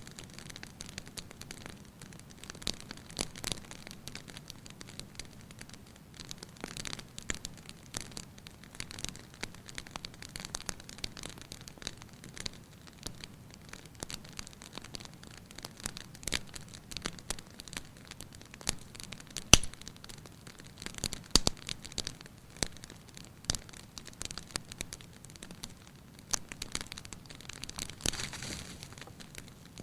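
Wood fire crackling in a fireplace: a steady soft hiss with frequent irregular pops and snaps, two sharper pops about two-thirds of the way through.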